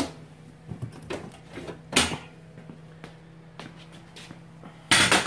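Clutch parts being handled on a bench: a few scattered knocks and clunks, a louder one about two seconds in and a loud rattling clatter near the end, over a steady low hum.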